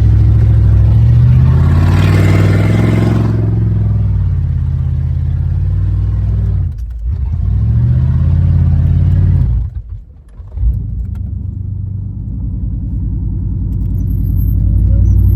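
Pickup truck engine on open headers with no exhaust, revving hard with a rush of noise over the first few seconds. It eases off about seven seconds in and nearly dies away around ten seconds, then picks back up and climbs again.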